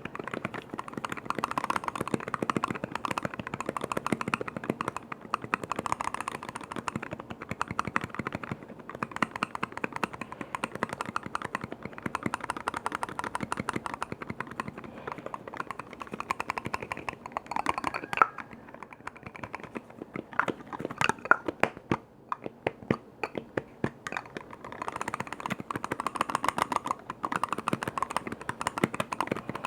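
Rapid, continuous tapping on containers and their lids, a dense run of light clicks with a short pause about three quarters of the way through.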